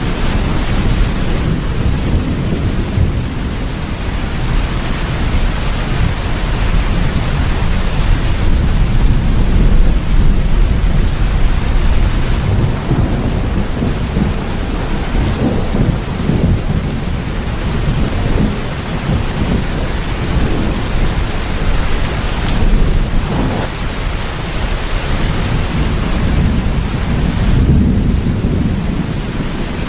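Steady rain falling, with a deep rolling thunder rumble underneath that swells and eases several times.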